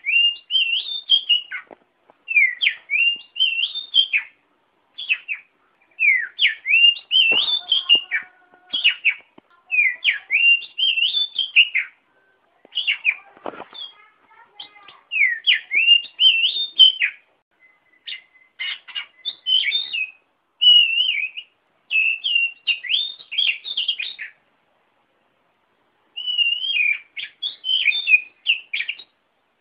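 Oriental magpie-robin singing: varied whistled phrases that rise and fall, repeated in bursts of one to two seconds with short gaps and one longer pause near the end.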